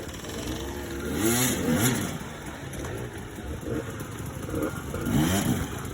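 Dirt bike engine revved in short throttle blips, its pitch rising and falling with each one, loudest about a second and a half in and again near the end, over a steady running hum.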